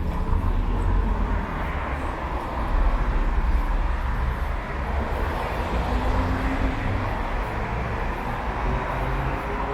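Street traffic: vehicles driving past with a steady, continuous rumble.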